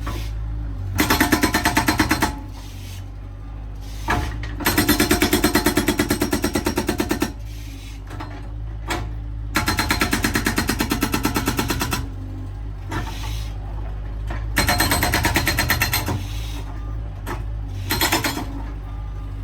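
Felix FX-68 hydraulic breaker hammering in four bursts of rapid blows, the skid steer's engine running steadily underneath and between the bursts.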